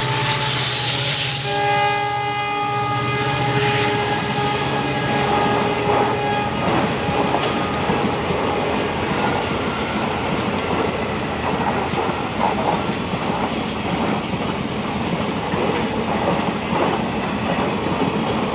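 A passenger train's coaches run through a station at speed without stopping. The locomotive's horn sounds for about four seconds shortly after the start. After that comes the steady rumble of the coaches, with wheels clicking over the rail joints.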